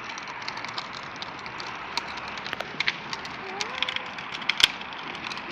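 Steady crackling noise with many scattered sharp clicks and ticks, the loudest about four and a half seconds in, typical of small wheels or feet moving over gritty ground.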